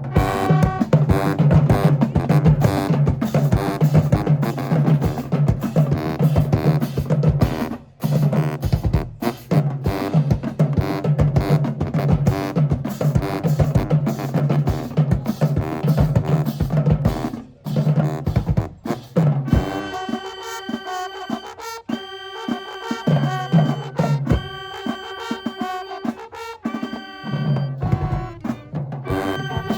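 High school marching band playing, with brass over a driving drum line. About 19 seconds in, the full band thins to held brass chords with sparser drum hits, and the heavy low end comes back near the end.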